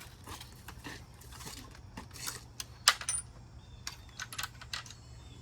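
Small metal bolts clinking and tapping as they are handled: a scatter of light metallic clicks, the sharpest about three seconds in with a brief ring.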